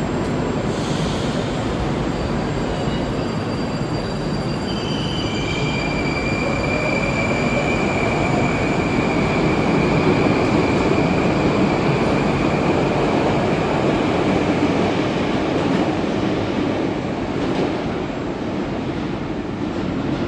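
Moscow metro "Moskva"-type train running through the station: a loud rumble of wheels and motors that swells toward the middle and eases off, with a high steady wheel squeal held for several seconds.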